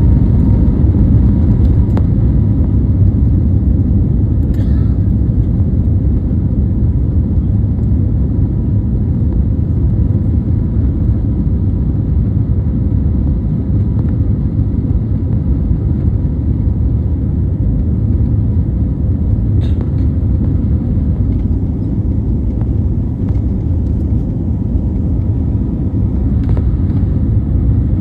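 Jet airliner taking off: a loud, steady low rumble of engines and rushing air, with a faint steady whine above it.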